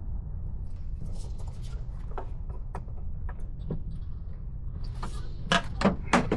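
Plastic air intake duct and air cleaner box of a 2008 Ford F-250 being pulled apart by hand: scattered light clicks and taps, then a few sharper plastic knocks and clatters near the end, over a steady low hum.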